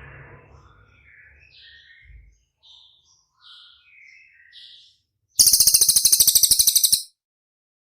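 Songbird singing on a recorded tutor track: a string of soft, short chirps and whistles at changing pitches, then a loud, very fast, high rattling trill lasting about a second and a half that cuts off suddenly.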